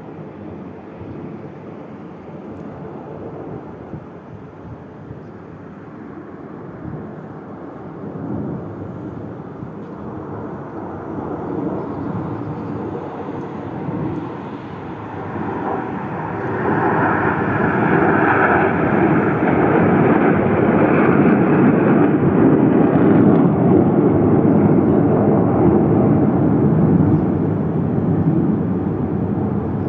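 Airplane flying past, its engine noise a steady rushing rumble that swells gradually, peaks a little past the middle, and eases off slightly near the end.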